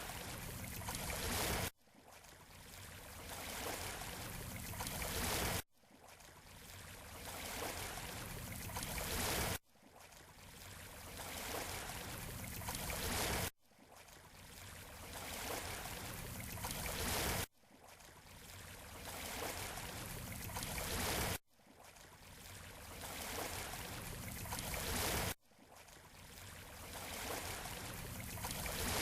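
Beach surf: an even rushing hiss that builds for a few seconds and then cuts off abruptly, over and over, about every four seconds. The identical hard cuts are the sign of a short surf recording played in a loop.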